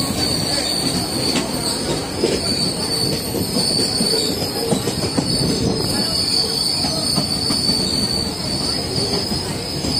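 Passenger express train running on the rails alongside a line of open freight wagons: a steady rumble of wheels on track, with a thin high wheel squeal held throughout and a few faint clicks over the rail joints.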